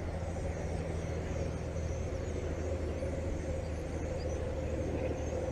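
Steady low engine-like hum, even and unchanging, over a background of wind noise.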